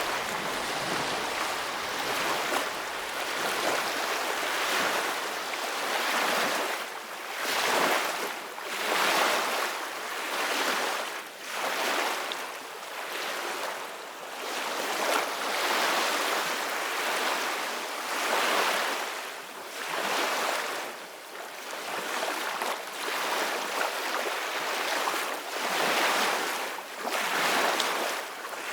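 Ocean surf: waves washing in, the sound swelling and falling away every second or two.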